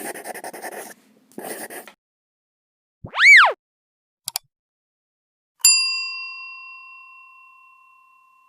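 A string of edited sound effects: two short noisy bursts, a quick tone that sweeps up and back down, two clicks, then a bell-like ding that rings out and fades over about three seconds.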